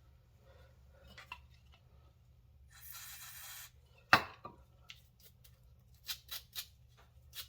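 Workshop handling sounds during a brake job: a short spray hiss of about a second, then one sharp metallic clank from a tool or part being set down, followed by a run of quick scraping strokes.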